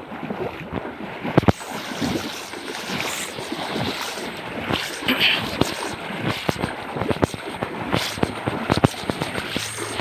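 Floodwater sloshing and splashing as someone wades through it, with irregular knocks among a steady rough rushing noise.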